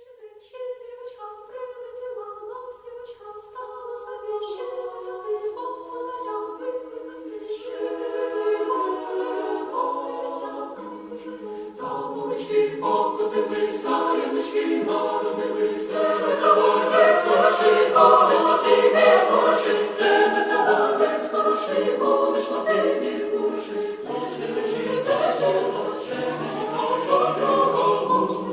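Choir singing a cappella: it starts softly with a few voices, and more voices join as it grows fuller and louder through the piece.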